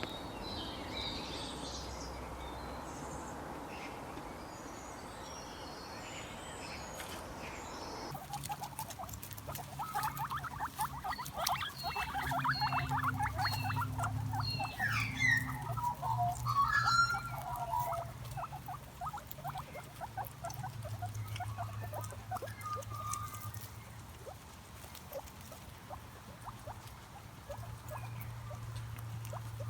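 For the first eight seconds, an outdoor bed of noise with scattered high bird chirps. Then a guinea pig takes over with short squeaks and rapid clicking over a low hum.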